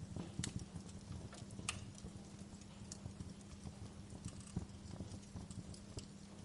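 Fire crackling: irregular small pops and snaps over a low, steady rumble of flames, with the sharpest snaps in the first two seconds.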